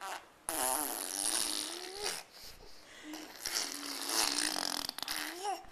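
Baby blowing wet raspberries: several long bursts of lip buzzing, her voice rising and falling through them.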